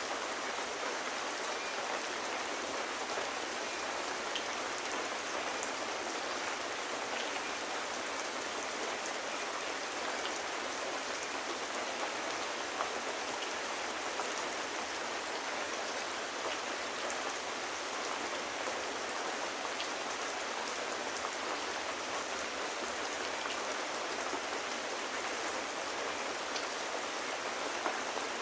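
Steady rain falling, an even hiss of drops with a few faint, scattered ticks.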